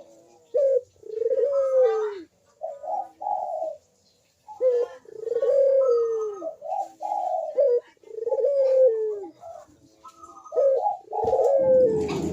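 A puter (Barbary dove) cooing its 'kuk deruk' call over and over, in phrases of short notes each ending in a long falling coo. A brief bump sounds near the end.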